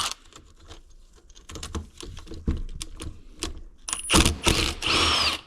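Metal hand tools and engine parts clicking and clinking as a motorcycle engine is worked on, with a louder scraping rattle about four seconds in that lasts just over a second.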